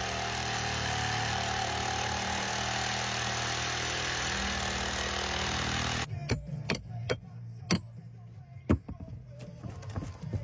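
A steady machine hum, like a running motor, for about six seconds that stops abruptly. It is followed by five or six separate sharp knocks spread over the next few seconds.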